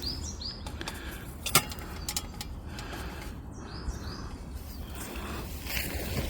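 A songbird singing short phrases of three or four arched chirps, once near the start and again about three and a half seconds in, over a steady low rumble. A single sharp knock about a second and a half in.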